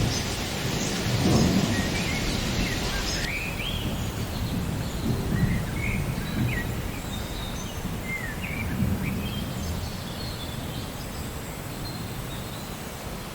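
Rain ambience: steady rain with low rolling thunder and birds chirping repeatedly over it. The rain's high hiss thins out abruptly about three seconds in.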